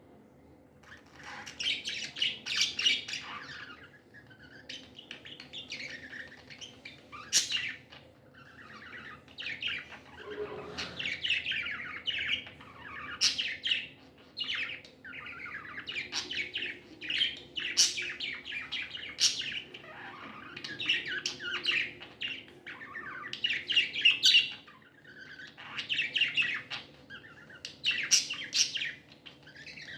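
Budgies chirping and warbling in a busy, continuous run of short chirps with sharp high notes, starting about a second in.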